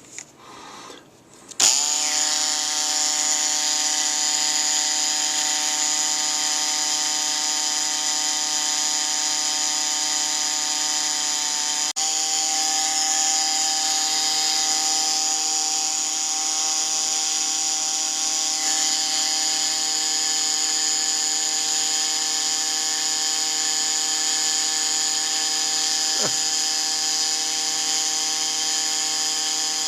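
Dremel-type rotary tool switched on about two seconds in, then running with a steady whine while it is used to sharpen a 0.5 mm drill bit.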